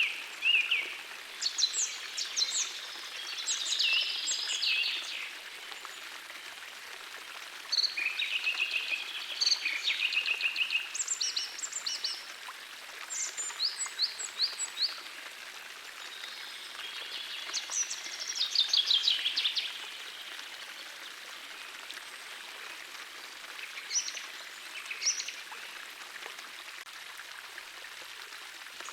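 Songbirds singing in short phrases of quick chirps and trills every few seconds over the steady sound of a small forest stream flowing.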